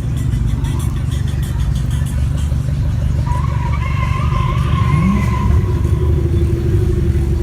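Car engine running with a steady low rumble, with a faint wavering higher tone in the middle.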